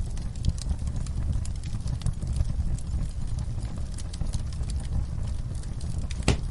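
Wood fire burning in a fireplace, with a steady low rumble of flames and irregular crackles and pops of the burning logs. One pop louder than the rest comes near the end.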